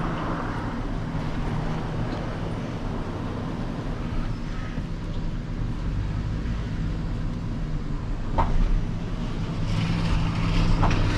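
Vehicle engine running steadily with a low hum, with two short sharp clicks near the end.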